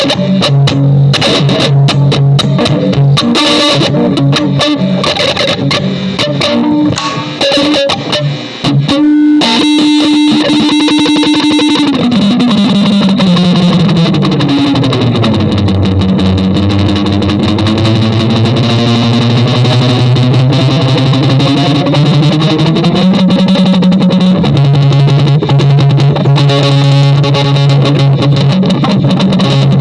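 Music: an electric guitar through effects, holding sustained notes. Partway through, a held note slides slowly down in pitch over a few seconds, then climbs gradually back up.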